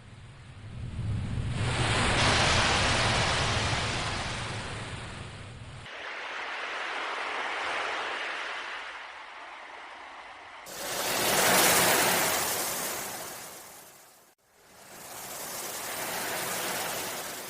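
Ocean waves breaking and washing in, rising and falling in about four swells, the loudest a little past the middle.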